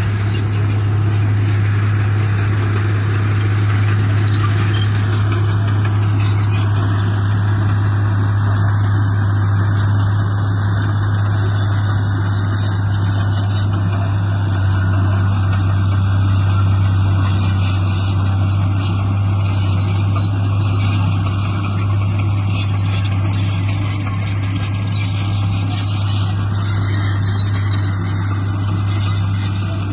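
Heavy diesel engine of an earthmoving machine running steadily, a constant low drone.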